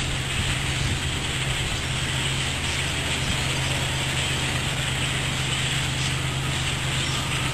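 A large flock of birds calling all at once, a dense steady chatter of overlapping clicks and chirps, over a steady low hum.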